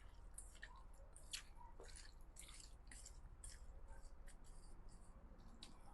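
Faint, irregular wet squishing and clicking of marinated chicken pieces being mixed with soaked mushrooms, black fungus and wolfberries in a bowl.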